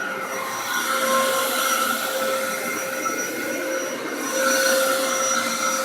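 Dyson DC08 cylinder vacuum cleaner running with its nozzle, picking up paper shreddings: steady rushing air under a motor whine that swells and eases every couple of seconds.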